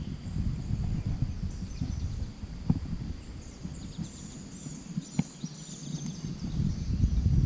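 Outdoor rumble of wind buffeting the microphone by a river, with birds chirping and two sharp knocks, one a little under 3 seconds in and one about 5 seconds in.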